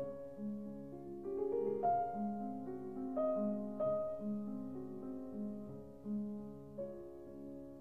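Background music: a gentle, slow piano piece with notes played one after another in a flowing pattern.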